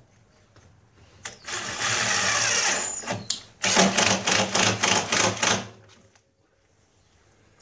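Power drill/driver driving two screws into plywood: one steady run of the motor, then a second run in quick pulses, about five a second, as the screw is driven home.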